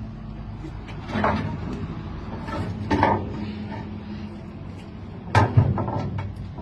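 A few knocks and bangs of a hidden compartment in a truck's chassis being handled as a man climbs in, the loudest a double bang about five and a half seconds in.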